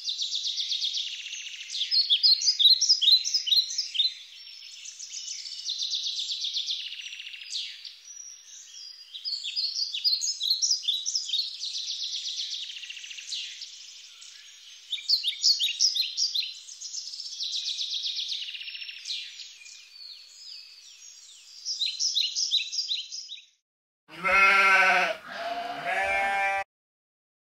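Birds singing, with many quick chirps and trills in overlapping phrases. Near the end two loud bleats from a sheep break in, and everything cuts off abruptly.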